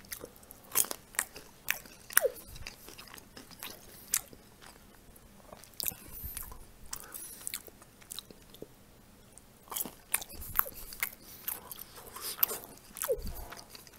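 Close-up chewing of crisp pan-fried pelmeni, with irregular crunches and wet open-mouthed smacking.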